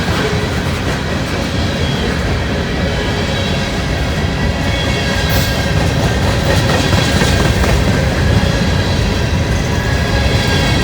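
Freight cars of a long train rolling past at close range: a steady, loud rumble of steel wheels on the rails, with a faint high-pitched wheel squeal over it.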